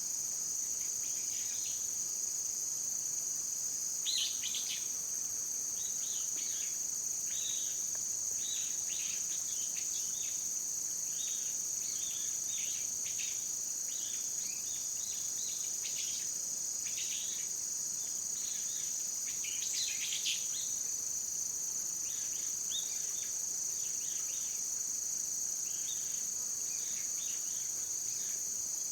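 A steady, high-pitched insect chorus, with short bird chirps scattered throughout, the loudest about 4 and 20 seconds in.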